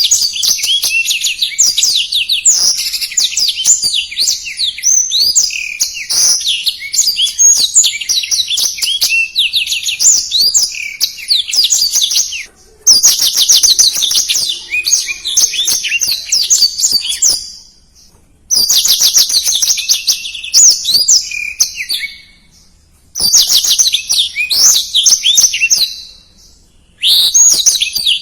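Black-throated canary (blackthroat) singing a fast, continuous twittering song of quick high sweeping notes, in long phrases broken by a few short pauses of about a second.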